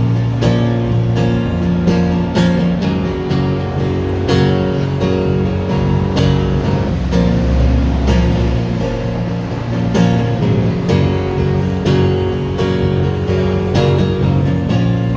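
Live band music led by a strummed acoustic guitar in a steady rhythm over a sustained low bass line, with no vocals: the instrumental intro before the singing starts.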